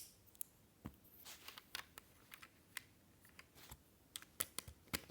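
LEGO pieces being handled and pressed together: irregular light plastic clicks and taps, with a sharper click at the start.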